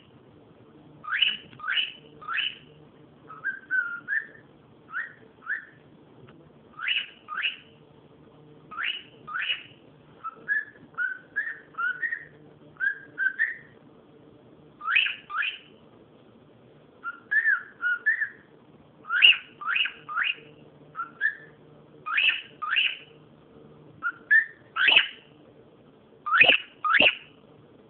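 Pet cockatiel whistling: short rising whistled notes, often in quick pairs or threes, repeated again and again.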